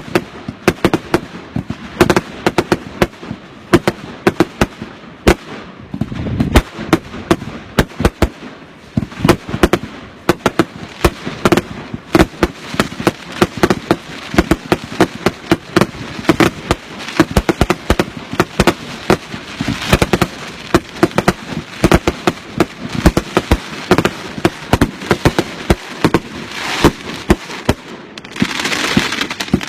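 Consumer fireworks going off in rapid, dense succession: many sharp bangs and crackles a second, with a rushing hiss near the end.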